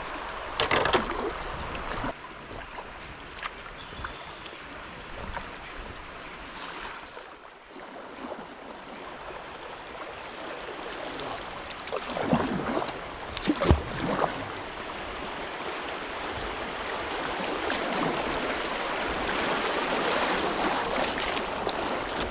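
River water rushing over a shallow, rocky shoal, heard from a kayak, growing louder toward the end. A few sharper splashes or knocks stand out, about a second in and again around the middle.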